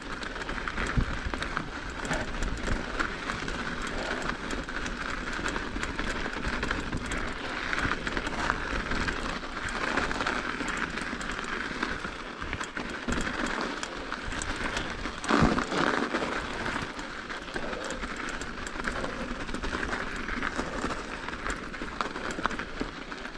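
Mountain bike rolling along a smooth trail: steady tyre noise with light rattling clicks from the bike, and one louder knock about fifteen seconds in.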